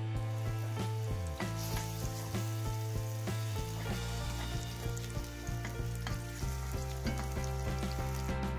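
Sliced button mushrooms sizzling as they fry in a pan, stirred with a plastic spatula; the sizzle fills in after about the first second and a half. Background music with sustained low notes plays throughout.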